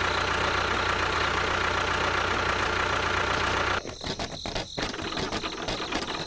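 A motor running steadily stops abruptly about four seconds in, followed by irregular clicks and rattles.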